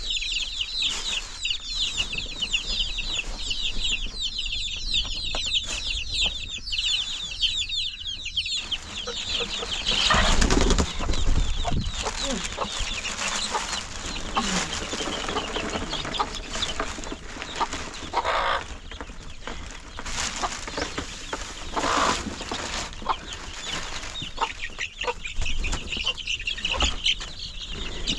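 Domestic fowl clucking, with dense, rapid high chirping for the first eight seconds or so. After that the chirping is mixed with irregular knocks and rustling.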